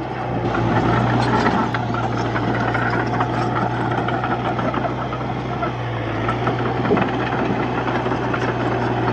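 Diesel engine of a D31-P crawler bulldozer running steadily, a constant low drone with dense mechanical rattle over it.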